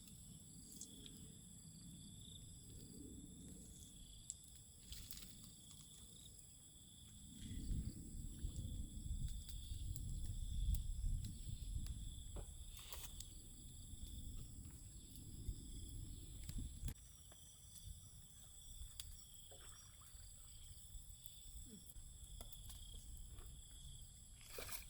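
Steady high-pitched chirring of insects such as crickets, held on several pitches throughout. A low rumble swells in about seven seconds in and fades around the seventeen-second mark, with a few faint clicks scattered through.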